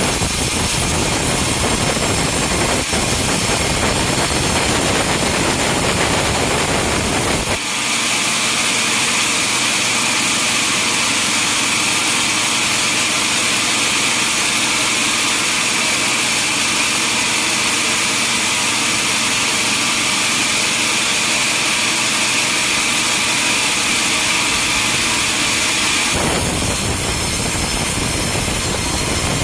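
Log sawmill machinery running loudly. About a quarter of the way in the sound changes abruptly to a steady, high-pitched saw sound, and it switches back abruptly near the end.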